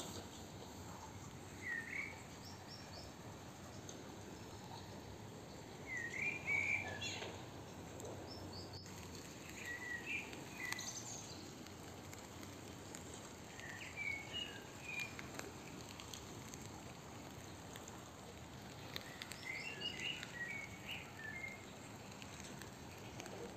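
A songbird calling in short, quick phrases about every four seconds, faintly, over a steady outdoor background hiss.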